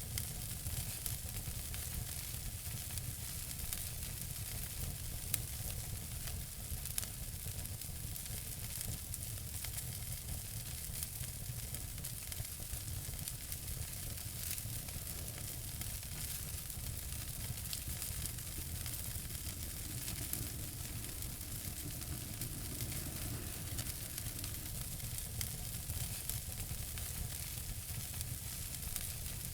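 Wood fire burning in a fireplace: a steady hiss with frequent small crackles and an occasional sharper pop.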